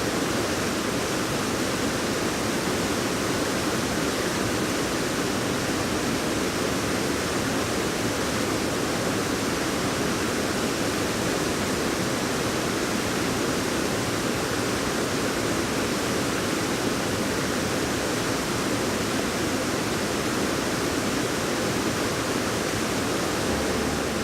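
Woodland waterfall rushing in a steady, loud roar of falling water, swollen and running lively after a night of heavy storm rain.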